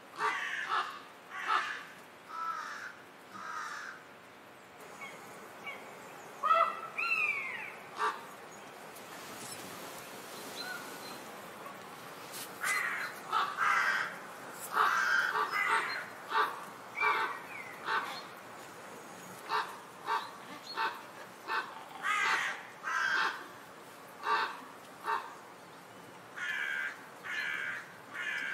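A series of short, harsh bird calls in irregular bouts, with a few sliding calls about seven seconds in.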